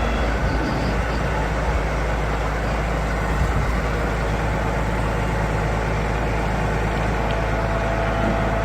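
A large vehicle's engine running steadily, a continuous low rumble with an even wash of noise over it.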